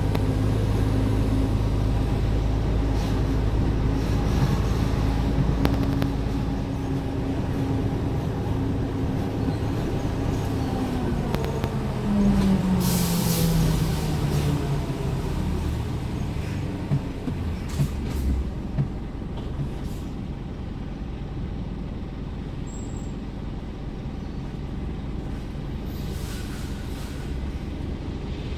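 Scania R410 truck's 13-litre six-cylinder diesel running steadily, then its revs falling away as it slows, with a short loud hiss of compressed air from the air system about halfway through and a few sharp clicks a little later.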